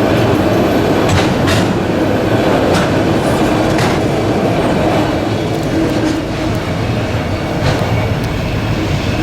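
Railcars of a passing train rolling by at close range: a steady loud rumble with repeated sharp clacks of wheels over rail joints.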